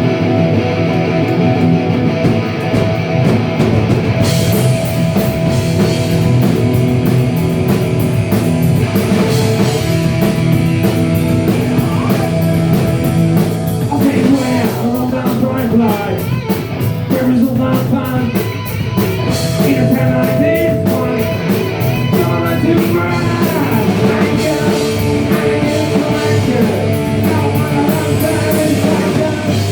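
Punk rock band playing live: distorted electric guitars and bass, with the drum kit coming in about four seconds in and a sung vocal line joining about halfway through.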